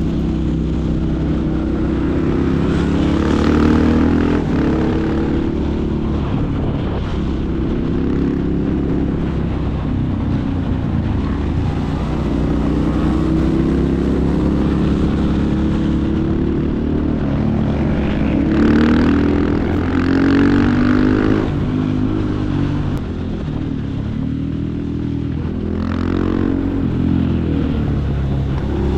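Supermoto motorcycle engines being ridden hard, revs climbing and dropping again and again through the gears.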